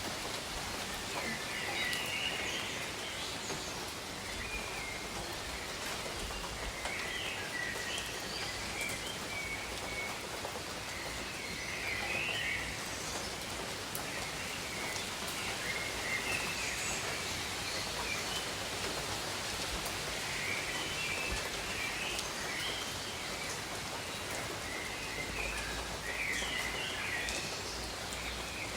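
Steady tropical rain falling on foliage, with a few louder single drops ticking, while birds call briefly on and off.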